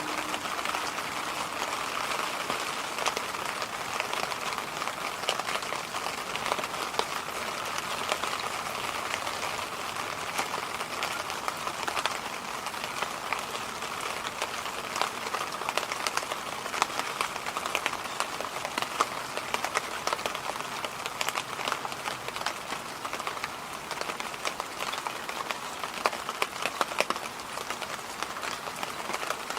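Electric fan running steadily: an even rushing hiss sprinkled with many small, irregular ticks.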